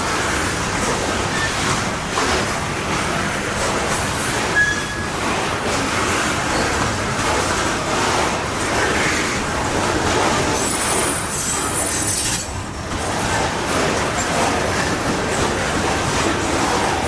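Canadian Pacific coal train cars rolling past on the rails, a steady rumble with wheel clatter. Short high wheel squeals come about four seconds in and again around ten to twelve seconds in.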